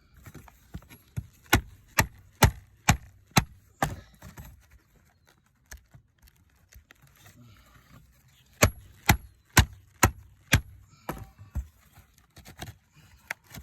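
Hammer blows driving a steel pry tool under a wood roof shake to free it from its staples: a run of about six sharp, evenly spaced strikes, then after a pause about five more, with lighter knocks near the end.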